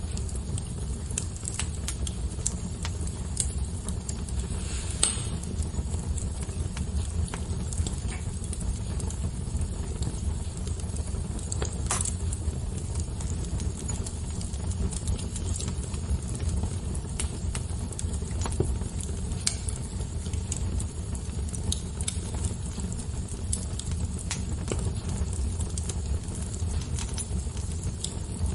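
Fire crackling: scattered sharp pops and snaps over a steady low rumble, with a few louder pops.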